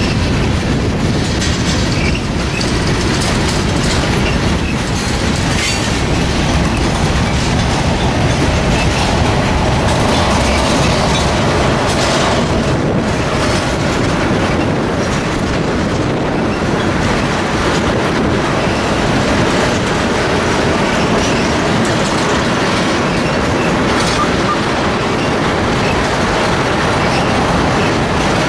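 Freight train of tank cars rolling past close by: a steady loud rumble and rattle of steel wheels on rail, with scattered clicks as the wheels run over the track.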